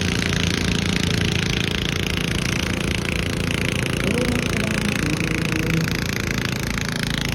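A garden tractor pulling engine running steadily and loudly with fast, even firing pulses.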